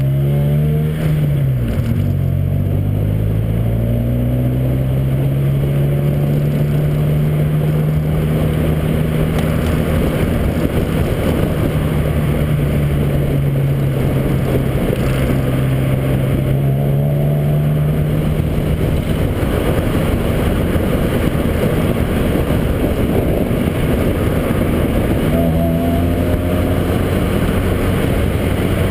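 Honda Civic's engine running while driving, picked up by a camera mounted on the outside of the car. The engine pitch dips and climbs again about two seconds in, then holds steady. From about two-thirds of the way through, wind and road noise on the microphone cover it, and the engine pitch rises again near the end.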